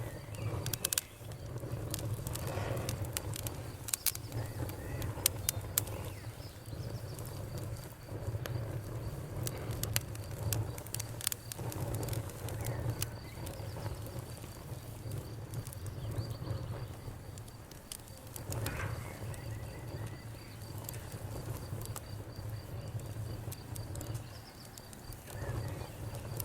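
Wood fire burning in a fireplace: irregular sharp crackles and pops over the low, swelling rumble of the flames.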